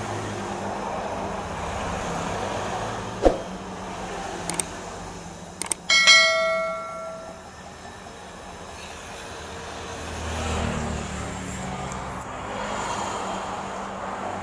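Car engine running steadily through an aftermarket racing exhaust. About six seconds in, a sharp metallic clank rings on for a second or so, with a smaller click a few seconds earlier.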